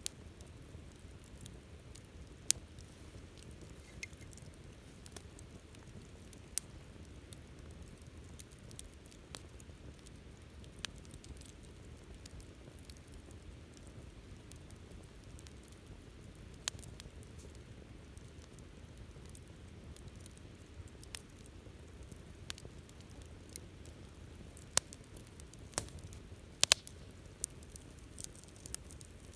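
Campfire burning with a steady low rumble and scattered sharp crackles and pops, a few louder pops coming close together near the end.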